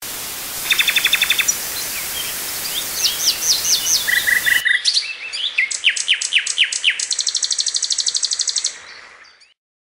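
A ciblek gunung (a prinia) singing a fast, unbroken run of rapid repeated chips, downward-sweeping notes and a quick trill. A steady hiss sits under the first half and drops away abruptly, and the song fades out near the end.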